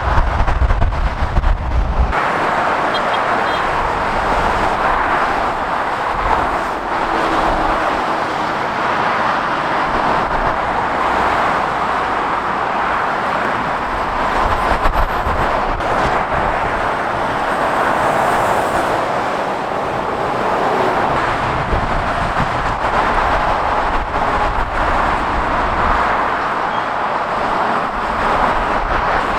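Steady motorway traffic noise: a continuous rush of tyres and engines from passing lorries and cars. A deep engine rumble in the first two seconds stops abruptly.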